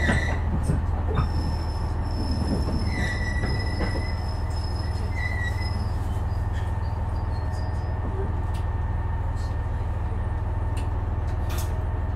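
JR West KiHa 126 series diesel railcar running, heard from on board: a steady low hum with brief high-pitched squeals about 3 and 5 seconds in and scattered clicks.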